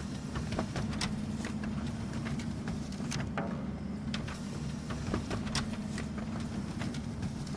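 Office printer running: a steady motor hum with irregular sharp clicks and taps from the paper-feed mechanism as sheets pass through.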